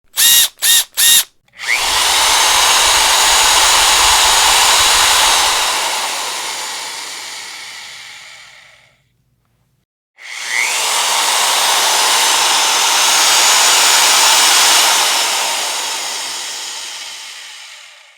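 Electric power drill: three quick trigger blips, then two long runs of several seconds each, separated by about a second of silence, each one dying away gradually as it ends.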